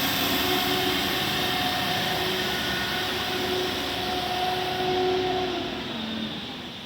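Street-cleaning water truck running, its engine hum under a loud steady hiss of water spraying onto the road. The hiss cuts back about five seconds in and the whole sound fades as the truck moves off.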